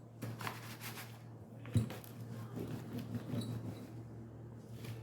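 Metal tube rolled and pressed over a bent wire mesh to flatten it: faint scraping and rustling, with one sharp knock a little under two seconds in.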